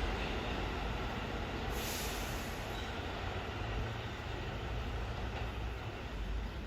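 New York City subway train rumbling along the track, slowly growing fainter as it moves away, with a brief high hiss about two seconds in.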